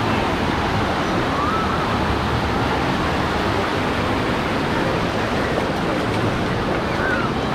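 Steady wash of ocean surf on a beach, with faint distant voices now and then.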